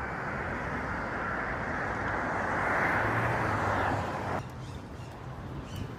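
Steady rushing wind and road noise from riding an electric scooter, building a little and then dropping off suddenly a little over four seconds in.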